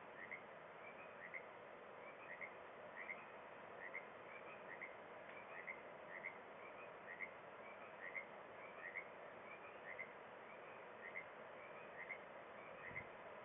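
Frogs calling in a steady series of short two-note calls, about two a second, over a faint steady background hiss.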